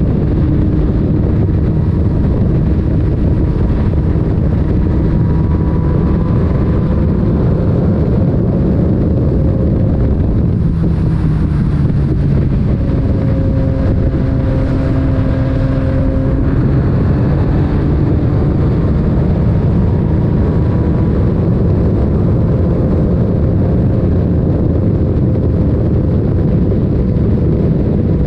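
Yamaha MT-09's three-cylinder engine through an Akrapovic titanium aftermarket exhaust, running steadily at riding speed, its pitch drifting a little as the throttle changes.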